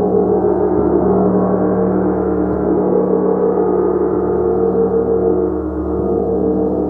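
Gong played continuously: a loud, sustained wash of many overlapping tones that stays at an even level, with its energy mostly in the low and middle range.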